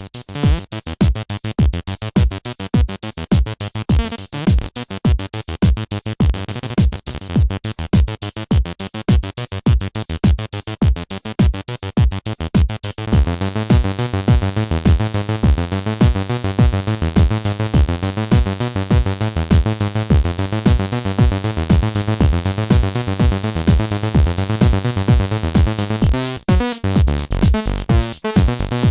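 Two Behringer TD-3-MO acid bass synthesizers playing the same sequenced bassline in unison, dry with no effects, over a steady drum-machine beat from a Roland JD-Xi. About halfway through the bassline fills out and sounds fuller, and near the end the pattern briefly breaks before it picks up again.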